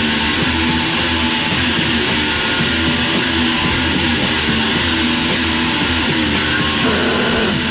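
A metal band playing an instrumental passage: distorted electric guitar riffing over bass, loud and continuous, from a 1987 demo recording.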